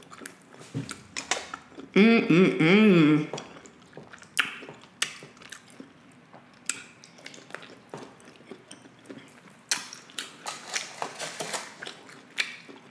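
Close-miked chewing of beef kielbasa sausage, with wet mouth clicks and smacks. About two seconds in comes a loud hummed "mmm" of enjoyment lasting just over a second. A run of sharper clicks comes near the end.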